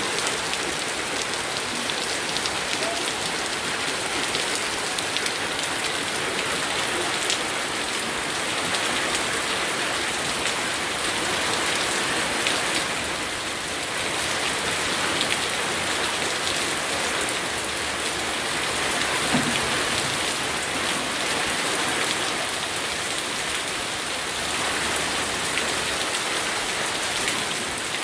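Steady rainfall, a dense patter of raindrops hitting surfaces.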